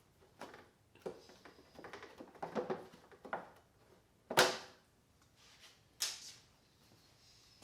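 Irregular clicks, rattles and knocks from hands-on repair work: tools and parts being handled on the quad. A sharp knock comes about four seconds in, the loudest sound, and a second one about six seconds in.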